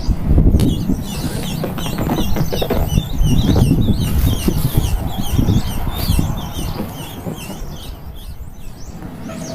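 Baby songbirds chirping: many short, quick, high chirps in a running series. Under them runs a loud low rumble with thuds, strongest in the first half.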